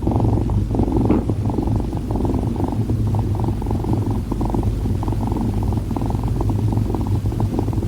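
Steady, close purring, a low continuous rumble.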